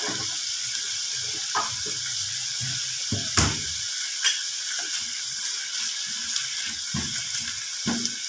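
Cubed chicken sizzling in a frying pan just after a little soy sauce has gone in, a steady hiss with a few short knocks against the pan, the loudest about three and a half seconds in.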